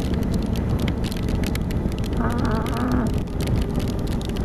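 Raindrops ticking on a motorcycle helmet over steady wind and road rumble while riding, as rain starts to fall. Around two seconds in, the rider lets out a short 'Ah'.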